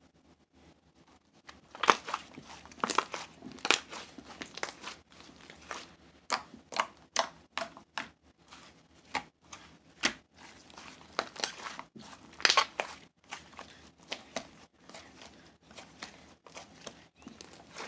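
Irregular crinkling and rustling, a run of short sharp crackles that starts about two seconds in.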